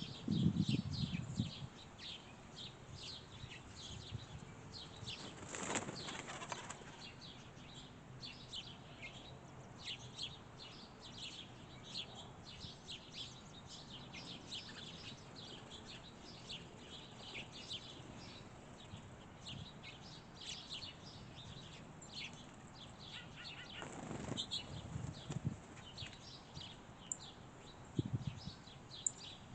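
Small songbirds chirping: many short, high calls over and over. Several brief bursts of wingbeats are heard as birds take off or land, at the start and again about six, twenty-four and twenty-eight seconds in.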